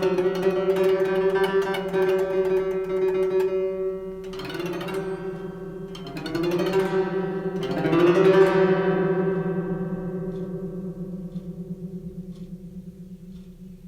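Guitar-like plucked string instrument holding sustained, ringing notes, with three upward pitch slides. After the last slide the notes ring out and slowly fade away.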